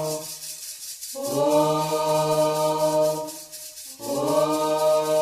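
Afro-Brazilian religious chant to the orixá Obá, sung in two long held phrases at a steady pitch, each followed by a short pause.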